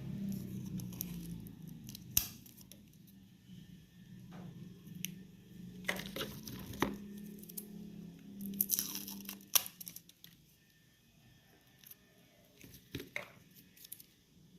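Electric meat grinder running with a steady low motor hum while fruit pudding is pushed through it, with scattered sharp clicks and crackles; the motor hum stops about ten seconds in, leaving only a few faint clicks.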